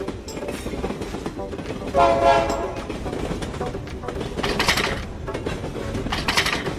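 Cartoon train sound effects: a train running on the rails with a steady rumble, one horn blast about two seconds in, and two short hissing bursts later on.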